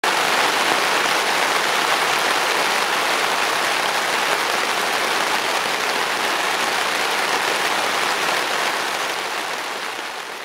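Steady rain falling, a dense even hiss that starts abruptly and fades away near the end.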